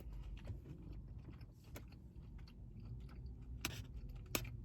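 A person chewing food close to the microphone, faint, with a few sharp little clicks near the end.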